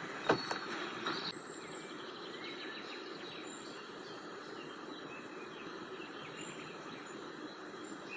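Evening forest ambience: a steady hiss of background noise with faint, high bird chirps now and then. A few sharp clicks or snaps come in the first second or so.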